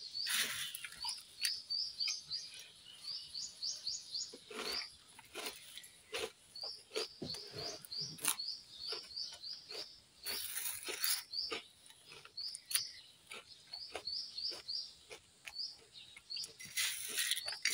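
Small birds chirping in runs of short, high notes, mixed with sharp crackling from crunchy puffed rice being picked up by hand and chewed.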